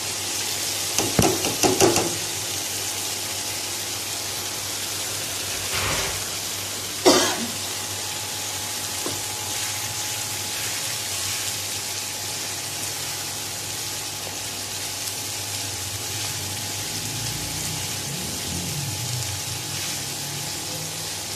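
Boiled chana dal frying in onion-tomato masala in a karahi with a steady sizzle. There are a few sharp knocks about one to two seconds in, and a short, louder burst of noise about seven seconds in.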